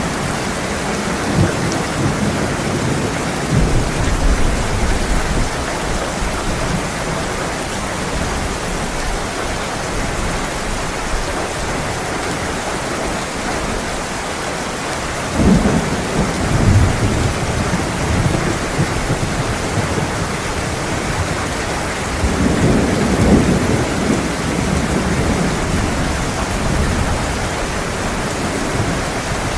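Heavy rain falling steadily, with rolls of thunder: low rumbles near the start, a stronger roll beginning about halfway through, and another a little later.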